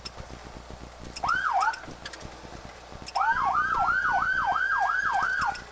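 Police car siren in yelp mode: a short blip about a second in, then a fast wail sweeping up and down about three times a second for a couple of seconds, cutting off near the end.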